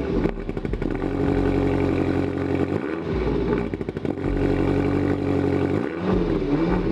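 A 2018 BMW M6's twin-turbo V8 running after a start on freshly added coolant, left running to check the cooling system for leaks. Its sound shifts briefly twice, about three and six seconds in.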